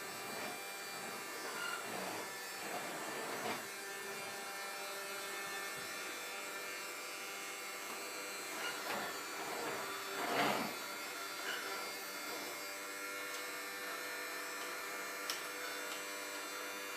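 Vacuum cleaner running with a steady motor hum, with a few brief swells of noise as it is pushed around.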